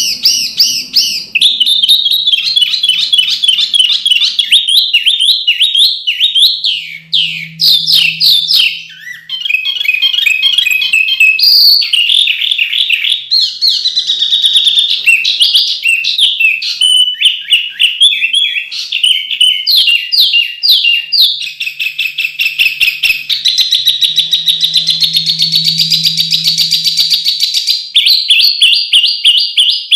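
A songbird singing a continuous, rapid and varied song of sharp chirps, trills and quick rising and falling notes, with hardly a pause.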